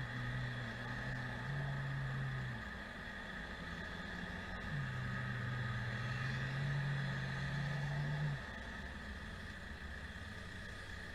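Car engine and road noise heard from inside a moving car's cabin, with a low engine drone that comes up twice and shifts in pitch in steps.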